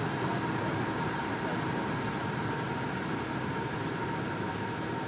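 Heavy construction machinery running steadily at a constant engine speed, a continuous rumble with a faint steady whine over it.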